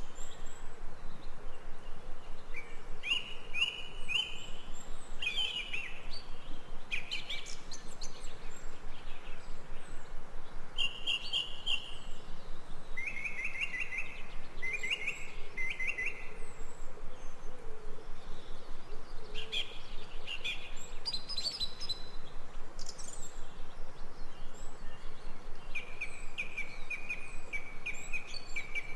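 Forest birds chirping and singing in short, quick trilled phrases, several calls overlapping at times, over a steady background hiss.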